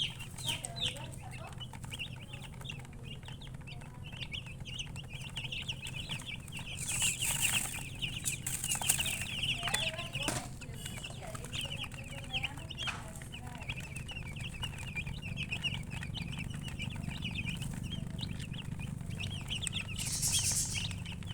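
A brood of baby chicks peeping continuously, a dense stream of short high chirps. Brief rustling hisses come about seven seconds in and again near the end, over a steady low hum.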